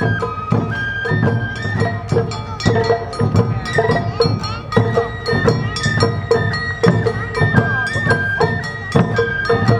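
Awa Odori festival music: a bamboo flute plays a melody in held, stepping notes over a steady beat of drums and a clanging hand gong.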